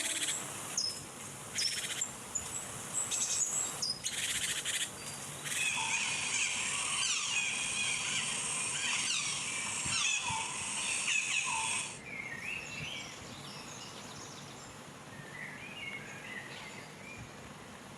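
Birds calling and chirping, with many quick sliding whistles overlapping in a dense chorus. About twelve seconds in it drops suddenly to fainter, scattered calls.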